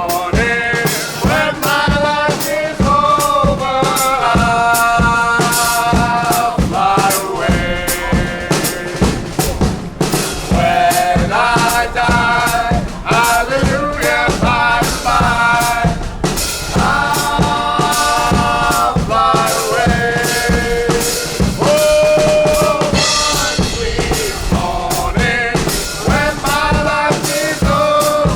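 A band playing, with a drum kit (bass drum and snare hits) driving a steady beat under held melodic notes.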